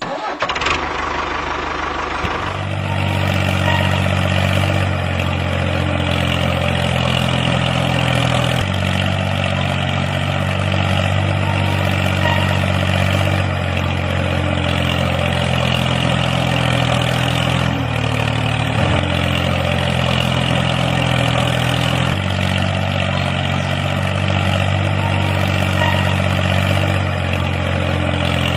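Engine running steadily at a low, even idle-like pitch, a tractor-like drone that shifts slightly every few seconds. It settles in a couple of seconds after a brief noisy start.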